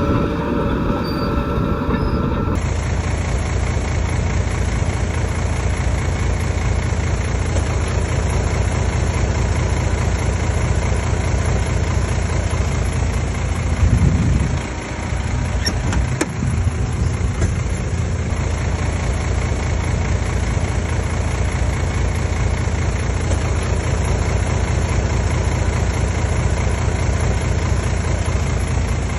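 Heavy diesel earthmoving machinery running steadily, a low continuous engine rumble, with a brief rise about halfway through.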